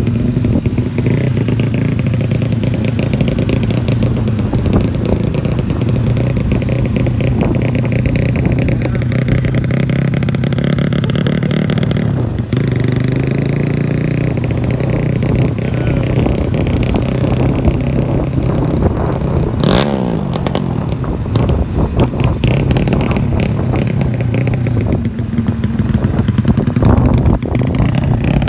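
Honda C70-based single-cylinder four-stroke motorcycle engine, enlarged to 180cc, running continuously with the revs rising and falling. There is a brief drop a little under halfway through.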